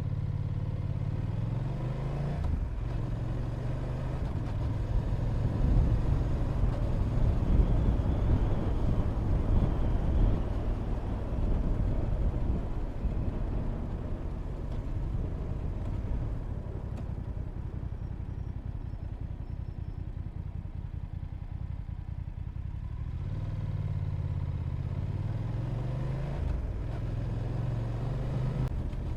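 Motorcycle engine running on the move with wind noise on the microphone. The engine note climbs and drops through gear changes near the start and again near the end, and the wind noise is strongest in the middle stretch.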